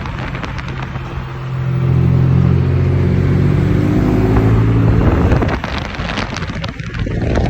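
Turbocharged car engine revved and held high for a few seconds. The throttle is then snapped shut and the turbo flutters in a rapid chatter, the compressor surging with no blow-off valve venting the boost. The engine revs up again near the end.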